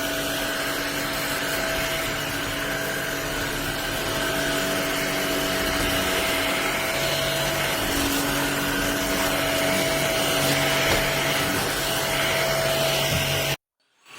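MBYULO cordless stick vacuum running steadily, a rushing airflow with a constant whine over it. It cuts off suddenly near the end.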